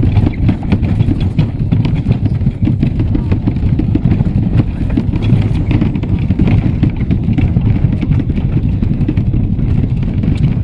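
Steady low rumble of a train in motion, with fine rapid clatter from the wheels and track.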